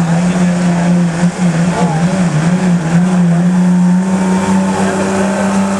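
Diesel pickup truck engine running hard at high revs under load, pulling the sled. The pitch wavers briefly about two seconds in, then holds steady.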